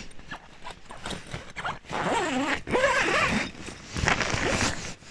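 Door zipper on the inner tent of a Bereg Cube 2.20 winter tent being run along its track in several pulls, the longest about two seconds in and another near the end.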